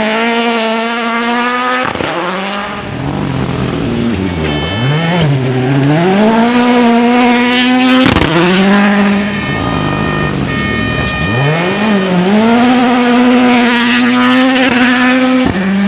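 Rally cars driven flat out, one after another: each engine revs high and holds there, with quick dips and climbs in pitch as the driver lifts and changes gear. The sound breaks off abruptly and changes car three times.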